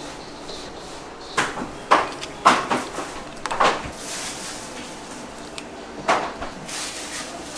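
Kitchen work sounds: a series of sharp knocks and clatters, as of utensils, trays or containers being handled, over a steady background noise, with a brief hiss in the middle.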